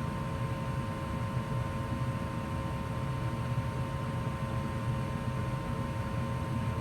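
A 2004 Goodman gas furnace running steadily in heat mode: an even low rumble of moving air and motor, with a faint steady whine over it.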